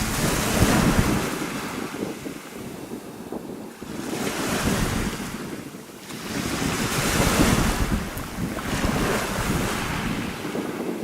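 Small sea waves washing up onto a shore of small pebbles, swelling and falling back about four times, with wind buffeting the microphone.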